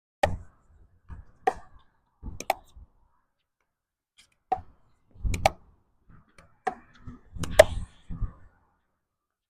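A ball being hit back and forth in a rally: sharp racket or paddle strikes about once a second, seven or so in all, with wind rumbling on the microphone at times.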